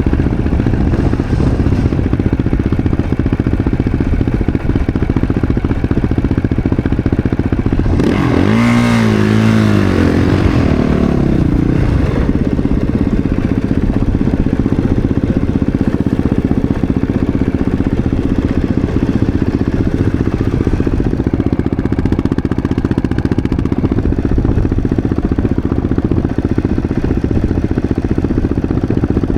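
450 cc four-stroke single-cylinder snowbike engine running steadily, revved up and back down once about eight seconds in.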